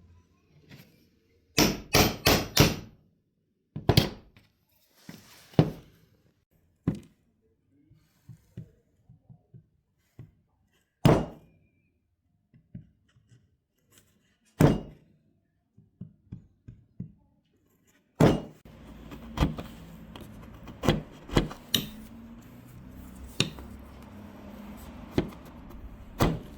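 Sharp knocks and thuds on wood: a quick run of four knocks, then single knocks spaced several seconds apart, and more knocks over a low steady background noise near the end.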